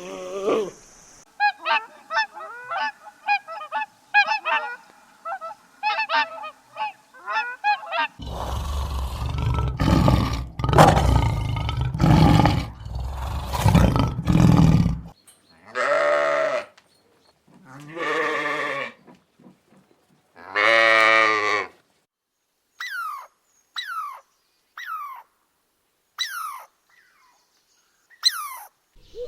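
A sequence of different animals' calls. Rapid short pitched calls come first, then loud rough calls for about seven seconds, then three long calls. Short falling chirps follow near the end.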